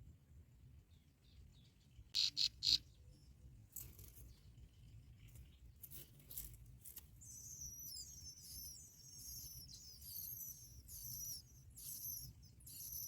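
Bar-winged prinias calling at the nest: three loud, short, sharp calls about two seconds in, then from about eight seconds on a rapid run of high-pitched squeaky chirps, repeated over and over.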